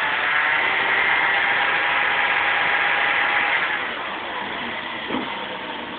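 Vauxhall C30SE 3.0 24-valve straight-six engine, fully warm, running steadily at raised revs, then dropping back to a quieter idle about three and a half seconds in.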